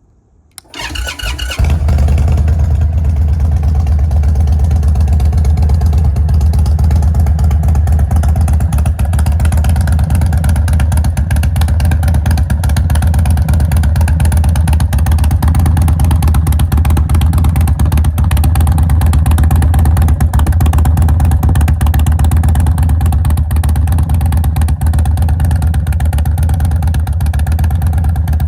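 Indian Chief Dark Horse's 116 cubic inch (1900cc) V-twin with a Freedom exhaust is cranked on the starter about half a second in. It fires a second later and settles into a steady, loud idle with a deep pulse through the pipes.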